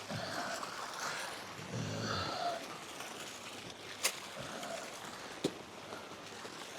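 Steady rain hiss, with a short low murmur about two seconds in and two sharp clicks about a second and a half apart.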